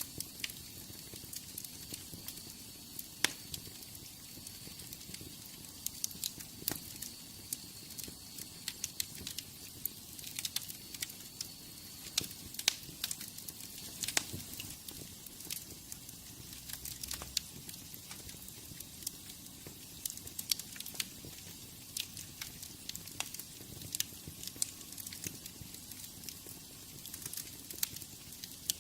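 Wood fire crackling in a fireplace: irregular sharp pops and snaps over a steady soft hiss. A faint high-pitched whistle sounds through the first third and then fades out.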